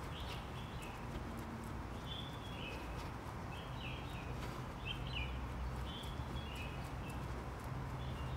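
A bird calling in short, repeated chirps, roughly once a second, over a steady low background hum.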